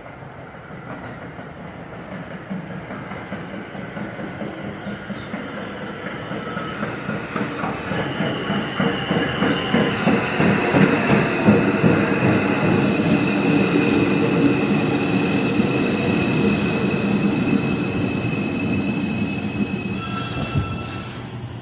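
An R142 subway train pulls into the station and brakes to a stop. Its wheels clatter over the rail joints, growing louder, and from about eight seconds in a steady high-pitched squeal sounds. The train eases off as it slows near the end.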